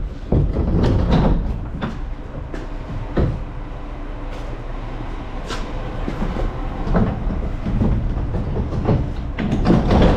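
Garbage truck's diesel engine running steadily under irregular clanks and rattles of a wheeled metal dumpster being dragged and rolled over pavement.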